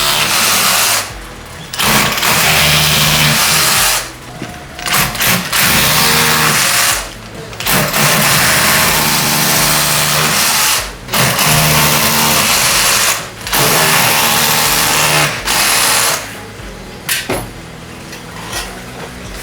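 A power tool running in repeated bursts of two to three seconds with short pauses between them, about six times, then stopping.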